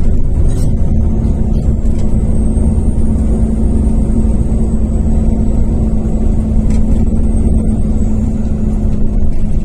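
Iveco Cursor F2B six-cylinder turbodiesel of an Irisbus Crossway 12M bus running steadily under way, a deep even drone with a faint high whine over it.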